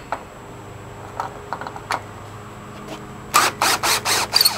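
Makita cordless driver with a 1/2 inch magnetic nut driver bit, run in short trigger bursts to back a bolt out of a gate latch. It is fairly quiet for about three seconds apart from a few light clicks, then comes a quick run of short, loud bursts.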